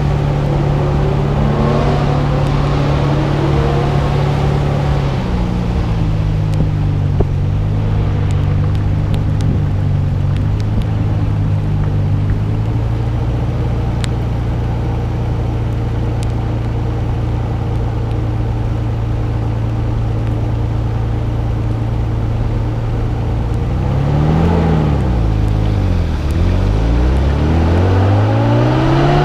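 Nissan Skyline R32 GT-R's twin-turbo inline-six engine pulling steadily at an even pitch for most of the stretch. About twenty-four seconds in, the pitch falls and climbs again through gear changes, then rises as the car accelerates near the end.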